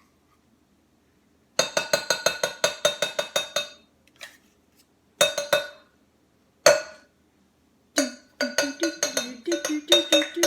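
A spoon tapping rapidly against a dish, giving runs of sharp ringing clinks: a quick burst of many taps, two single taps, then another quick run. This is the sound of peanut butter being knocked off a spoon while it is measured out.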